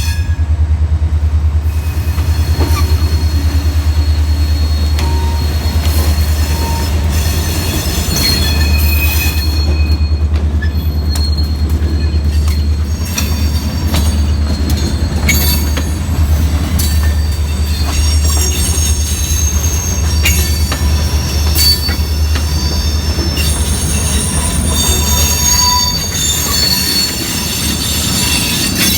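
A train rolling past close by: a steady low rumble, high wheel squeal on the rails coming and going, and repeated clicks of wheels over rail joints.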